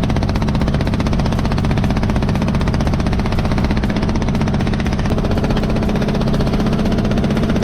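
An engine running steadily at an even idle-like speed, with a fast regular beat and a strong low hum.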